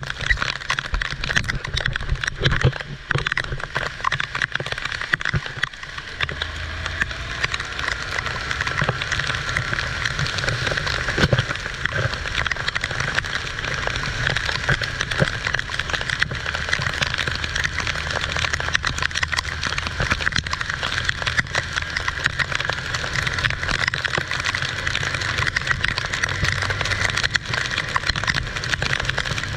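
Heavy rain falling and pattering on surfaces, a dense steady hiss of drops, with a low steady hum underneath.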